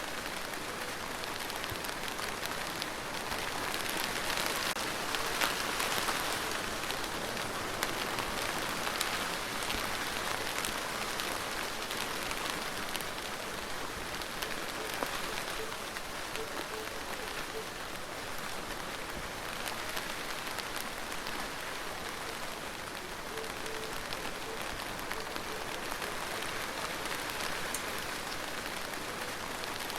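Steady rain falling, with many separate drops ticking through it; it swells a little about five seconds in.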